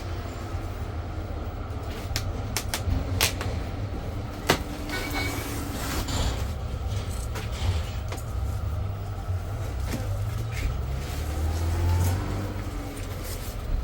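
A steady low vehicle rumble, with scattered sharp clicks and knocks; the sharpest knock comes about four and a half seconds in.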